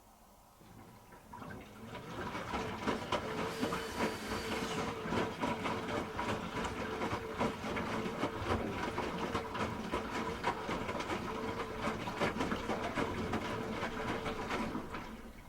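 Hoover H-Wash 300 Plus washing machine's drum turning, with a steady hum and constant clattering and sloshing of the wet load; it starts about a second in and dies away just before the end, with a brief hiss about four seconds in.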